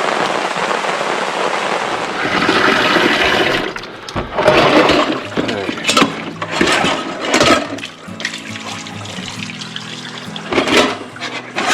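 Steady rain for about four seconds, then water sloshing and splashing with clinks as dishes are washed by hand in a basin. Background music comes in about eight seconds in.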